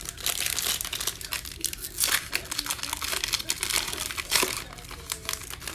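Plastic wrapper of a Panini Mosaic football trading-card pack being torn open and crinkled, with a dense run of crackles, loudest about two seconds in and again near the end.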